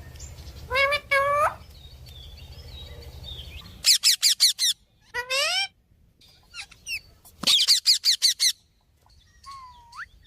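Parrot calling: two voice-like calls rising in pitch about a second in, then quick runs of high, rapid chirps twice, and a single rising whistle near the end.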